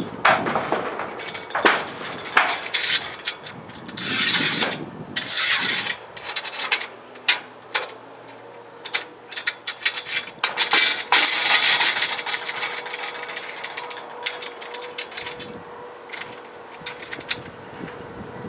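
Tools working metal mounting hardware while solar-panel rails are fitted: a run of irregular clicks, knocks and ratcheting, with two longer scraping stretches. A faint steady hum comes in partway through.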